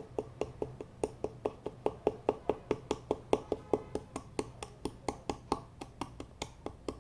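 Rapid, even tapping on a container, about four to five taps a second, each with a short clink, as baking soda is shaken out of it by hand.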